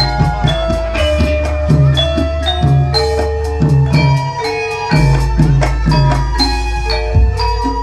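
Instrumental gamelan-style music with no singing: struck metallophones ring out a running pattern of notes over regular drum strokes and a steady low bass.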